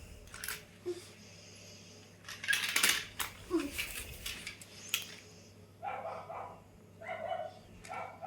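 Small hard toys clattering and knocking together in a quick cluster of clicks and rattles, followed near the end by three short voice-like sounds.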